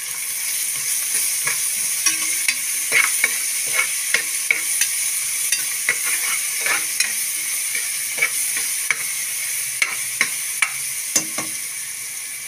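Sliced onions, green chilli and ginger-garlic paste sizzling in sesame oil in an aluminium pressure cooker while being stirred, the stirring utensil scraping and knocking against the metal pot in frequent sharp clicks over the steady hiss of the frying.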